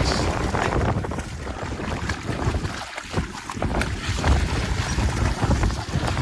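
Wind gusting against the microphone, over the wash of surf.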